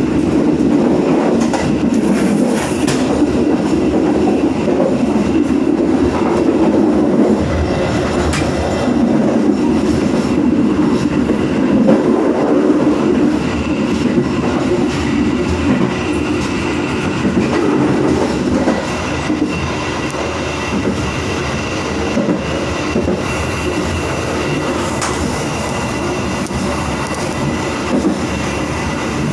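Ballast-stone freight wagons rolling along the track, their wheels rumbling and clacking over the rails, with a faint high wheel squeal in the second half.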